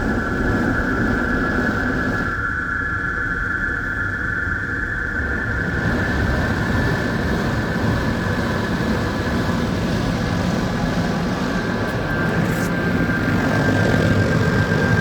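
Christ Varius automatic car wash machinery running: a steady whine over constant rushing noise and a low rumble.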